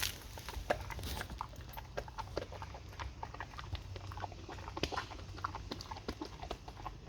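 A pet chewing a dental snack: a run of irregular short crunches and clicks.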